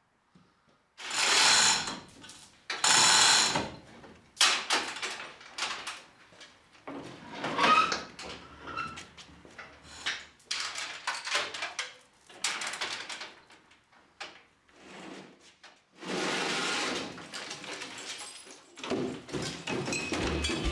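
Power tool cutting through the sheet-metal cab floor in repeated bursts of one to two seconds, stopping and starting again.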